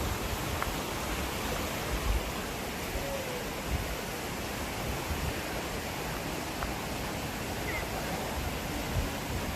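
Steady rushing outdoor noise with occasional low bumps, and a few faint short high chirps about half a second, three seconds and eight seconds in.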